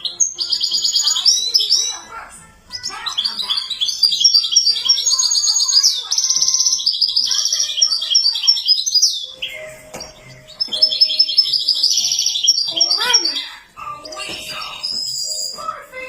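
European goldfinch singing: long phrases of rapid, high twittering trills, with short breaks about two and a half seconds in and around nine to ten seconds in. The song is quieter near the end.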